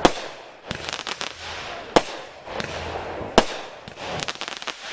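Aerial fireworks going off: loud bangs about every second and a half, with clusters of quick crackling and a hiss between them.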